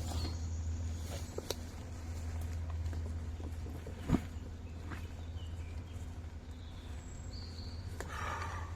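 Outdoor camp ambience: a steady low rumble, with a few sharp knocks, the loudest about four seconds in, and faint short high chirps.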